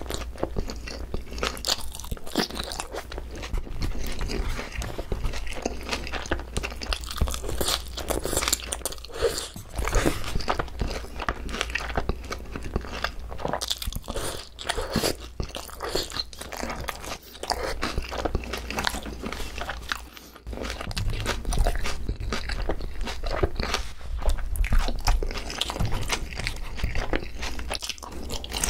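Close-miked chewing and crunching of pa-dak, boneless fried chicken with shredded green onion in sauce, bite after bite, with a short lull about twenty seconds in.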